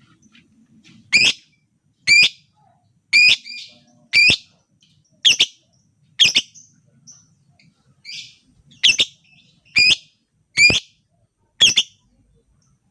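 Lovebird giving a series of loud, sharp, shrill chirps, about one a second, with a few fainter calls between them.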